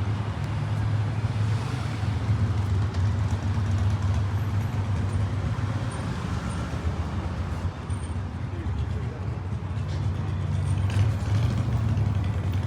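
Steady low rumble of a motor vehicle engine running, with street traffic noise around it.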